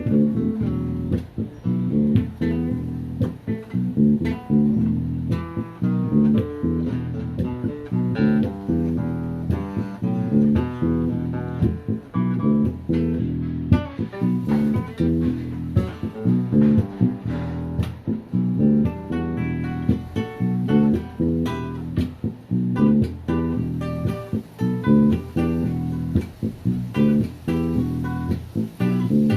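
Guitars playing an instrumental passage with a steady rhythm of plucked notes over a bass line, without vocals.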